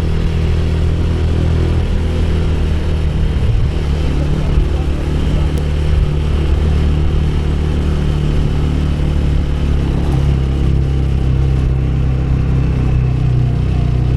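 Motorcycle engine running at a steady pace while riding, its note shifting slightly about three to four seconds in.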